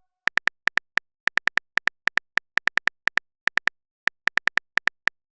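Text-message app typing sound effect: a quick, uneven string of short, identical high electronic beeps, like keys being tapped as a message is typed.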